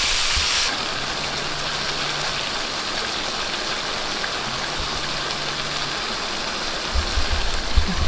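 Chicken in sauce sizzling and bubbling in a wok over a wood fire, a steady hiss that drops a little in brightness about a second in. A few low thumps near the end.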